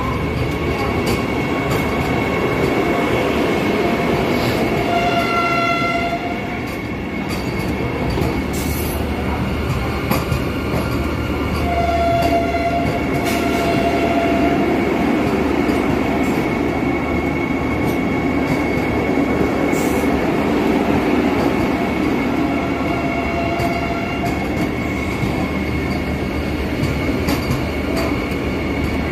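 Vande Bharat Express train running on the rails: a steady rumble with a thin high whine throughout, and wheel squeal rising up three times as it goes.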